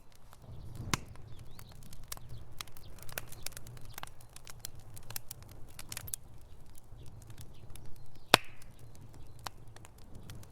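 Wood fire crackling in a fireplace: irregular sharp pops and snaps over a low steady rumble of the flames, with one loud pop about eight seconds in.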